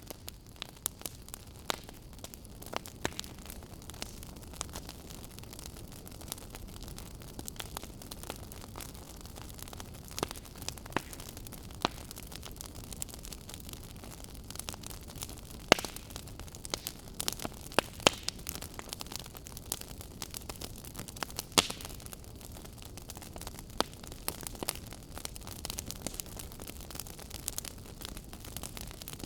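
Fire crackling: irregular sharp pops and snaps, a few much louder than the rest, over a steady low rush of burning.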